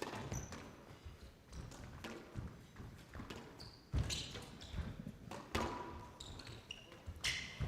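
Squash rally: the ball is struck by rackets and cracks off the court walls in a few sharp hits, the last three coming a second or two apart, with short high squeaks of shoes on the court floor between them.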